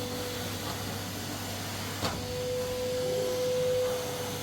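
A steady machine-like hum with a constant whine running through it, and a single sharp click about two seconds in.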